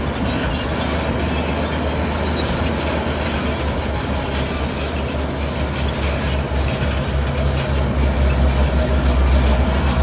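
Heavy diesel construction machinery running with a deep, steady rumble that grows a little louder near the end.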